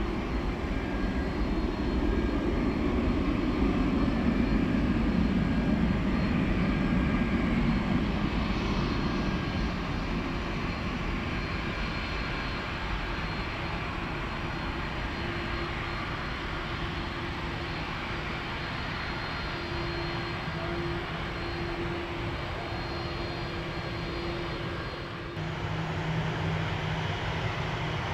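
Jet airliner engines passing: a low rumble that is loudest a few seconds in, then fades to a steadier, quieter roar. The sound shifts abruptly near the end.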